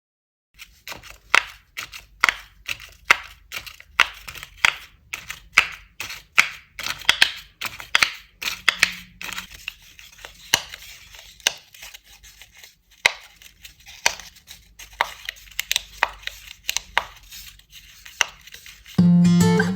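Folded origami paper being handled: a run of sharp paper snaps and crinkles, one or two a second, thinning out about halfway through. Acoustic guitar music comes in near the end.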